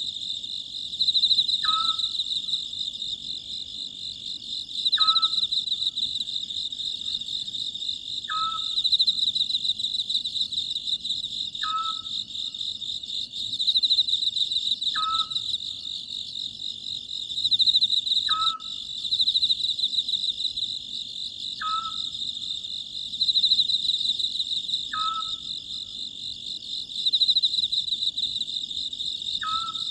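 Oriental scops owl giving its short call about every three seconds, over a steady chorus of chirring crickets that swells and fades in slow waves.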